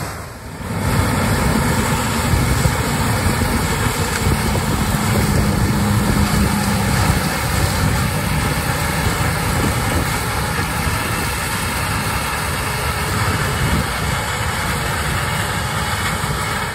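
Large harvest machinery running steadily, a deep engine drone mixed with dense mechanical noise.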